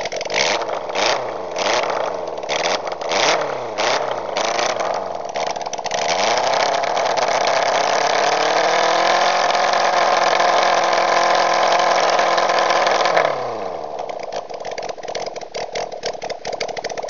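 Kawasaki Zephyr 750's air-cooled inline-four running on open headers with no collector or silencer, blipped about seven times in quick succession, then held at high revs for several seconds. The throttle is snapped shut about 13 seconds in, the revs fall away, and it settles into a rough, crackling idle.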